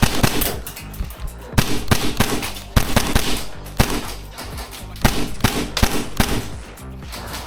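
Airsoft guns firing in quick shots and short bursts, over background music with a steady beat.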